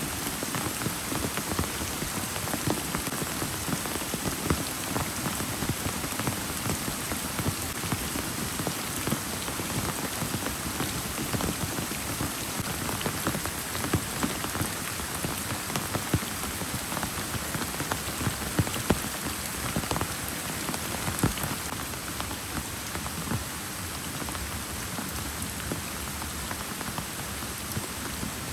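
Heavy rain pouring steadily, with many close drops striking a surface as separate sharp taps.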